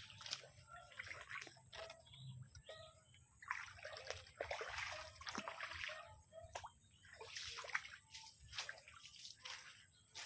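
Many short bird chirps, scattered irregularly, among brief clicking and splashy noises, over a steady high-pitched tone.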